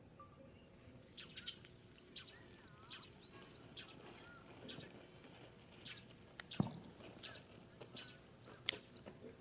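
Small birds chirping faintly in short, curving calls, with scattered light clicks, a dull knock about two-thirds through and a sharp click near the end.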